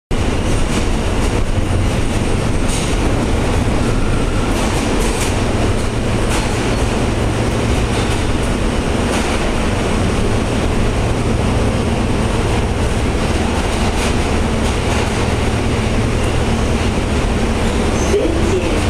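New York City subway train running, a steady loud rumble with scattered clicks of the wheels over the rails.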